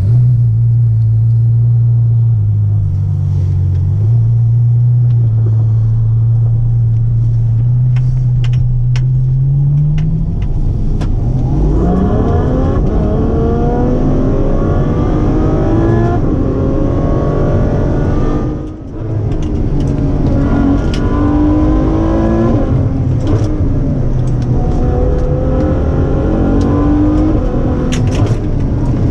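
Ferrari F12's 6.3-litre naturally aspirated V12 heard from inside the cabin. For about the first ten seconds it runs with a steady low drone at light throttle. Then the note climbs as the car accelerates, the revs rising in repeated sweeps, with a short drop about two-thirds of the way through before it pulls again.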